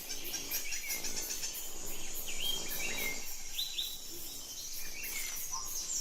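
Wild birds giving many short chirps and calls, several of them falling in pitch, over a high insect chorus that pulses a few times a second.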